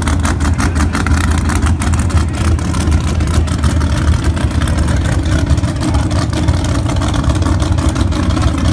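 Drag car's race engine idling loudly with a choppy, rapid lope.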